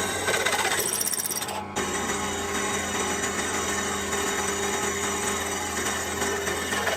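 Restored KIRA 10mm bench drill press running with a steady motor hum, with a brief louder high hiss about a second in.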